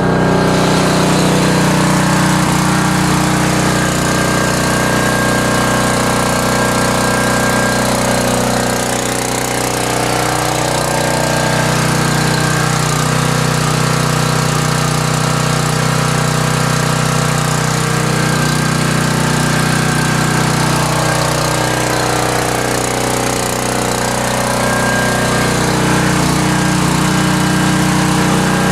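Portable gasoline generator engine running steadily, its note dipping slightly about a third of the way in and again about two-thirds in.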